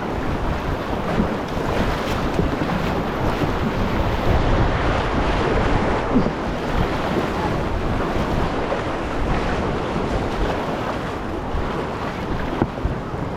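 Continuous rush of whitewater in a river rapid, with wind buffeting the microphone.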